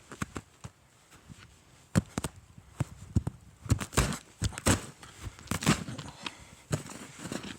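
Footsteps crunching through deep snow: an uneven series of short crunches as someone walks.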